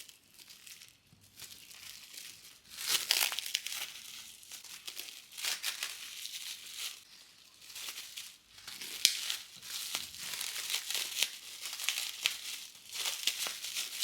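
Crinkling and rustling of something being handled, in irregular crackly bursts, louder in several short spells.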